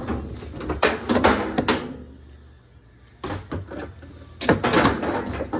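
Bursts of knocking and clattering from the washer's metal cabinet and parts being handled during a suspension-rod replacement, with a quieter gap between the bursts.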